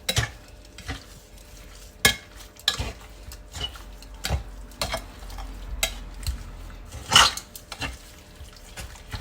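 Raw chicken pieces being mixed by hand with flour, ground spices and oil in a bowl: irregular wet squelching and knocks against the bowl.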